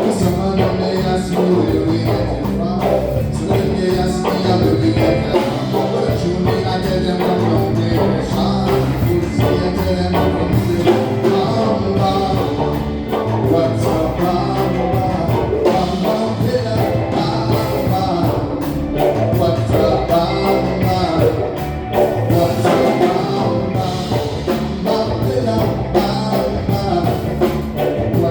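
A live band playing a song with singing and guitar.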